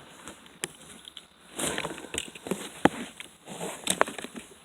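Handling noise: light rustling and a few sharp clicks and crackles from dry cicada shells being handled and bagged.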